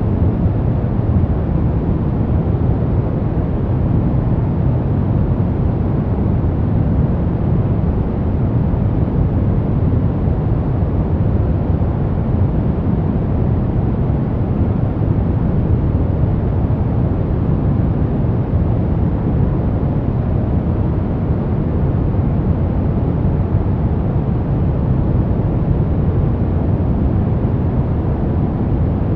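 Steady, unchanging sleep white noise, deep in tone, with most of its weight in the low end and little hiss at the top.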